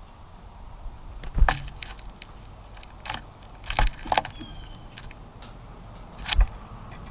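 A few sharp knocks and taps close to the microphone, as birds land and peck at a bird feeder, with a brief high bird chirp about four seconds in.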